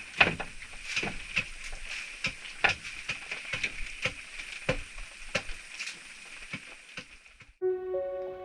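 Irregular sharp knocks and clicks, about one or two a second, over a steady high-pitched hum. Music starts about a second before the end.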